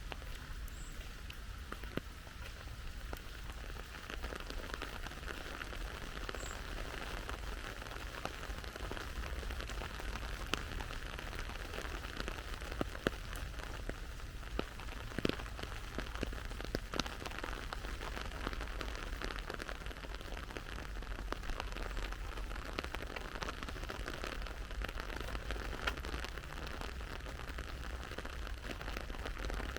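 Steady rain falling, an even hiss with many scattered sharp clicks of individual drops, over a low rumble.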